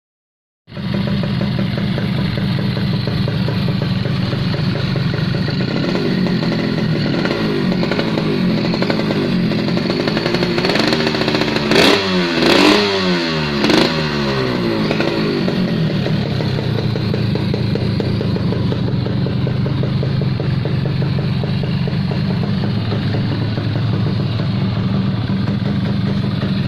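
Yamaha RX-King's two-stroke single-cylinder engine running through an aftermarket exhaust. It starts abruptly about a second in at a steady idle, rises in revs around the middle with three quick throttle blips, then falls back to a steady idle.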